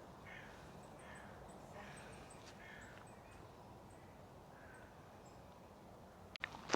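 Faint wild birds calling: short calls spaced roughly a second apart, with a run of thin, very high-pitched peeps from a small bird over the first five seconds. A sudden click comes near the end.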